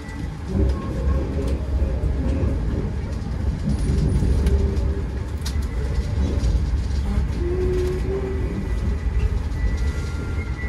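Argo Dwipangga passenger train running on the rails: a steady low rumble, with a few short faint tones over it now and then.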